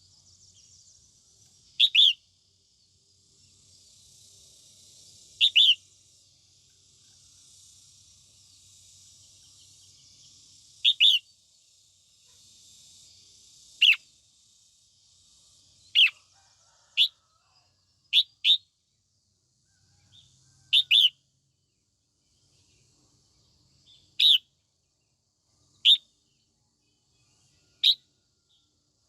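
Female red-whiskered bulbul giving short, sharp calls every one to three seconds, often in quick pairs, each note falling steeply in pitch. These are the female's calls used to rouse males. A faint steady high hiss lies behind them.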